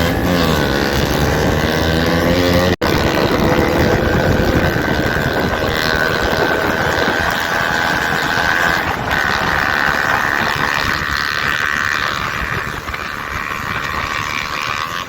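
KTM RC 200's single-cylinder engine running through a loud Akrapovic exhaust with the dB killer removed, its pitch rising and falling for the first few seconds. After a brief dropout about three seconds in, a steady rushing noise with a high hum carries on and slowly fades.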